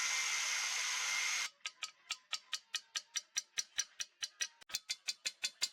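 A power tool runs with a steady whine and stops abruptly about a second and a half in; then comes a fast, even run of short sharp metallic strokes, about five or six a second.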